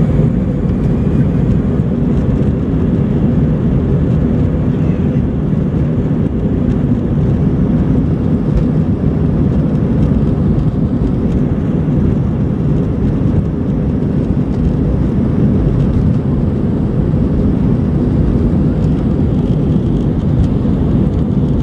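Jet airliner engines running with a steady, loud low rumble that holds even throughout.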